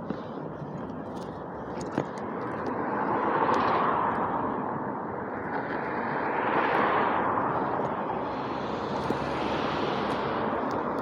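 Passing road traffic: three vehicles go by one after another, each swelling and fading, a few seconds in, near the middle and near the end.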